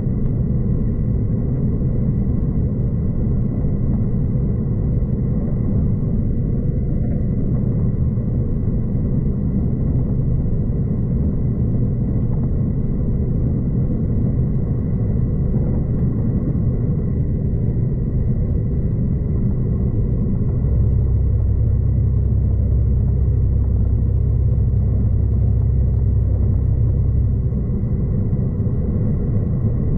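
Steady running rumble of a V/Line diesel passenger train at speed, heard from inside the carriage. About two-thirds of the way through a deeper, louder rumble comes in for several seconds, then eases off near the end.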